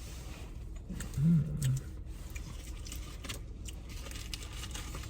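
Faint small clicks and clinks of things being handled, with a short low hummed voice sound about a second in.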